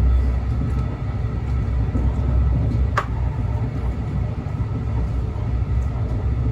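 Train running with a steady low rumble, and a single short squeal about three seconds in.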